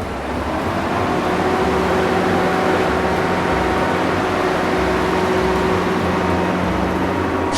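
Truck engine sound effect running steadily: a low rumble under a steady hiss and hum.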